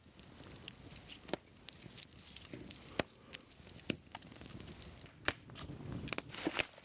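Hands-on food preparation: scattered sharp taps and clicks, with rustling and tearing between them.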